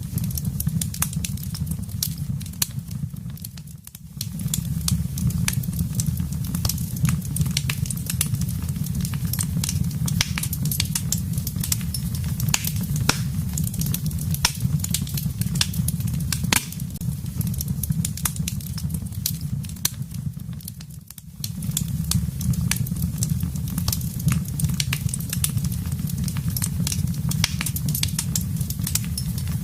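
Wood fire burning in a fireplace: dense, irregular crackles and pops over a steady low rumble. The sound drops away briefly twice, about four seconds in and again about twenty-one seconds in.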